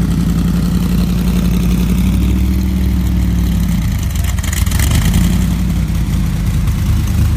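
Car engine running at a steady idle close by; its pitch shifts about four seconds in, with a short burst of hiss just after.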